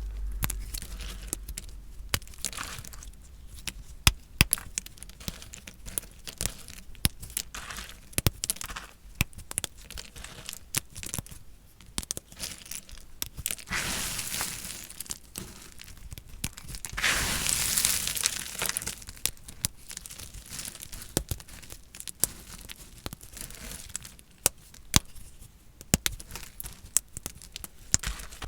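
A knife cutting dry, painted soap: crisp crunching with many sharp cracks and snaps as the blade breaks through the hard bar. There are two longer crumbly, scraping passes, about 14 seconds in and again around 17 to 18 seconds in.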